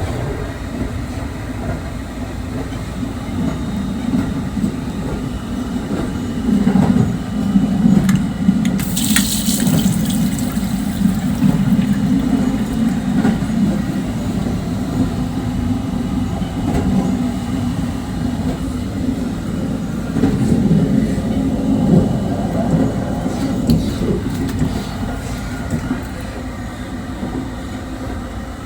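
JR 681-series electric train running, a steady low rumble heard inside the car. A brief hiss about nine seconds in.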